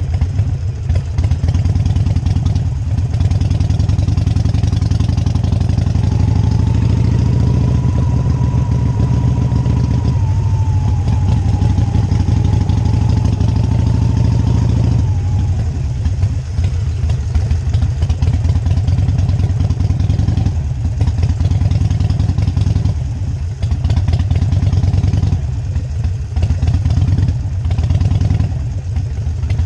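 Motorcycle engine running steadily as it is ridden, with the throttle easing off briefly several times in the second half. A thin whistle-like tone holds for several seconds in the middle.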